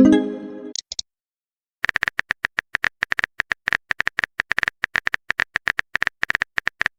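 A short message chime at the very start, ringing out over about a second, then, after a brief silence, rapid smartphone keyboard tap clicks, several a second, typing out the next message.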